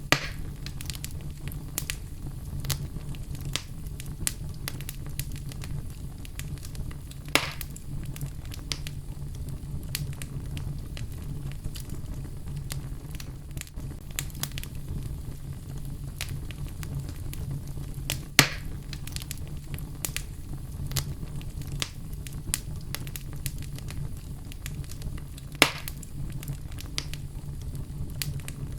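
Wood fire burning in a fireplace, with a steady low rumble of flame and a constant scatter of small crackles. Four sharp, louder pops stand out, spaced several seconds apart.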